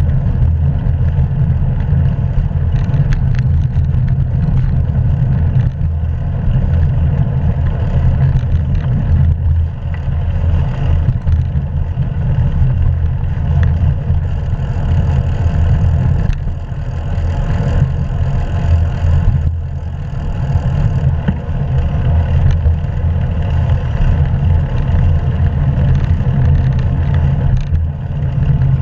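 Wind and road noise on a GoPro 3 Silver's microphone during a bicycle ride: a loud, steady low rumble with a fainter hiss above it.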